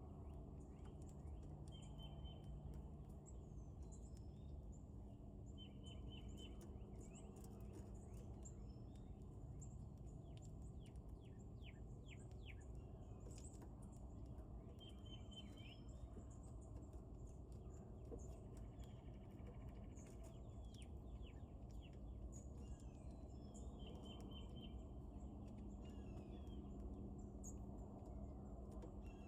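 Faint wild birds chirping now and then, short high trills and scattered chips, over a steady low background rumble.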